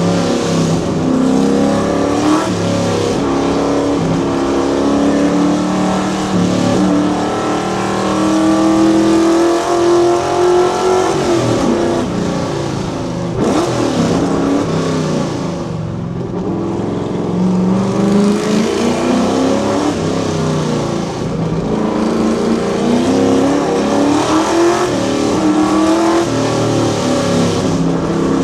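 Fox Body Mustang's 5.0 V8 accelerating hard up a hill climb. The pitch climbs and drops again several times as it goes through the gears. It eases off briefly about halfway before pulling hard again.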